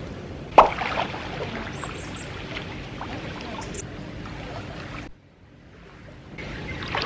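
Steady rush of water, with a sharp knock about half a second in and a few faint clicks; the sound drops out suddenly for about a second near the end.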